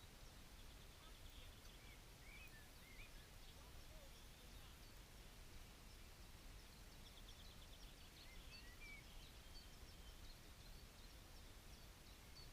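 Faint wild birdsong: scattered chirps and short trills, twice in little clusters, over a low steady rumble of near-silent open air.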